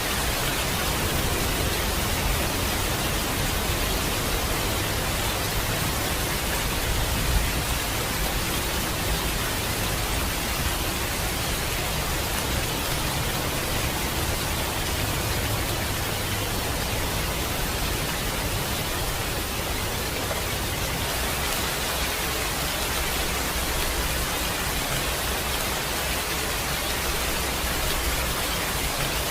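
Steady heavy rain, a dense even hiss with a low rumble underneath, one slightly louder patter about seven seconds in.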